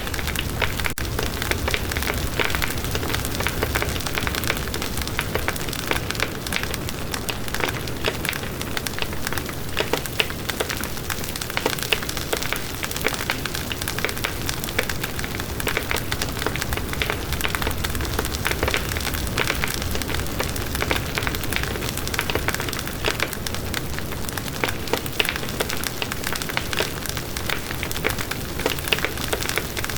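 Campfire burning with dense, continuous crackling and popping of the burning wood.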